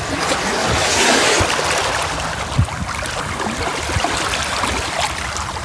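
Running, splashing water, with a louder rushing swell about a second in and small scattered clicks.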